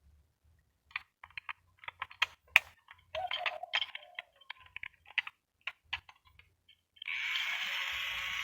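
Clicks and rattles of plastic parts of a mini vacuum cleaner being handled. About seven seconds in, its small motor switches on and runs with a steady whir.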